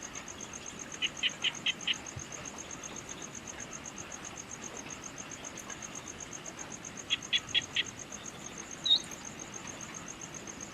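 Evening outdoor ambience: insects keep up a steady, high, pulsing trill. A bird calls twice in quick series of five short notes, and one brief chirp comes near the end.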